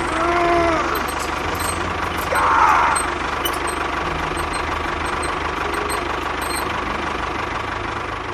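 Steady engine-like mechanical running noise with a low hum, from the motor of a miniature DIY tractor-bulldozer model. About two and a half seconds in, a brief high squeal glides down in pitch and is the loudest moment.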